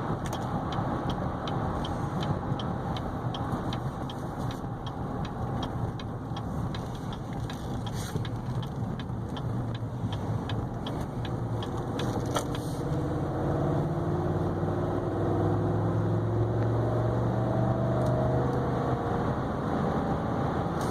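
Cabin noise from a 2015 GMC Yukon Denali XL driving on the road, with its 6.2-litre V8 running under the tyre and road noise. A regular ticking of about two a second runs through the first half. From about thirteen seconds in, the engine pulls harder and its tone rises.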